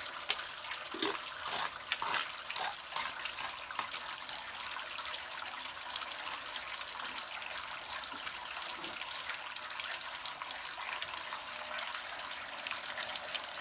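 Water running steadily out of a water heater's open drain port during a drain and flush, with a few splashes in the first few seconds; the flow carries out the calcium scale built up in the bottom of the tank.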